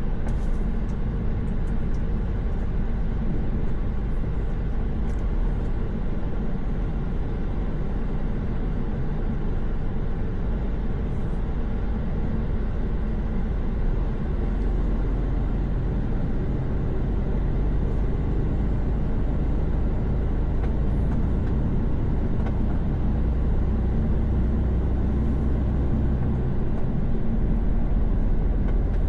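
Semi-truck's diesel engine and tyre noise at a steady highway cruise, an even low rumble with a faint steady engine hum.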